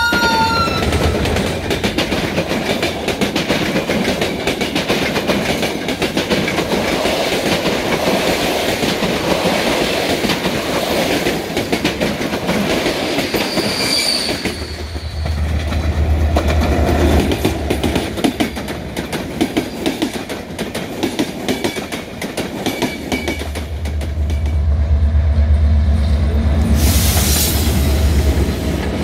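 Passenger train passing close by. The locomotive's horn cuts off in the first second, then the coaches roll past with a dense rattle and clatter of wheels over rail joints and a brief wheel squeal. Twice a heavy low drone of a locomotive passing close swells up, the second one near the end.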